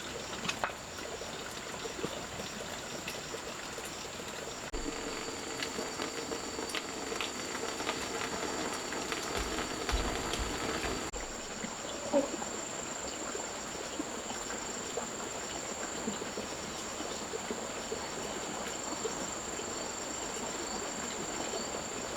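Insects chirring in a steady, high-pitched drone that runs on unbroken. Scattered light clicks and a single knock a little past the middle.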